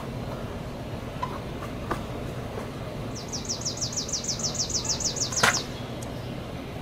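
A bird sings a rapid trill of about fifteen quick, falling high notes, starting about three seconds in and lasting some two and a half seconds, over a steady low background rumble. A sharp click comes as the trill ends.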